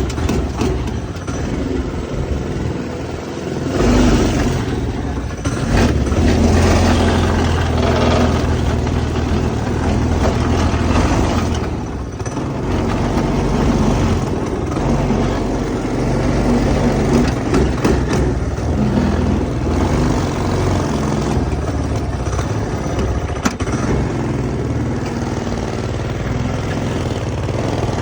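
Small four-stroke go-kart engine fitted with a new 30 mm carburetor, running and revving up and down unevenly. It is running poorly: something is wrong, which the owner later puts down to a plugged part.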